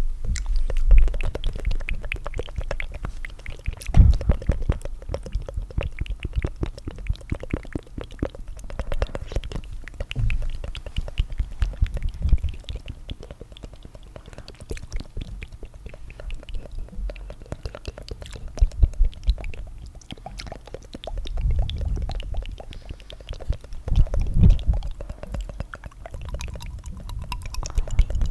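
Layered tongue fluttering recorded very close to the microphone: a dense, continuous stream of quick wet mouth clicks and flicks. Several times there is a heavier low swell, like breath or air pushed onto the microphone.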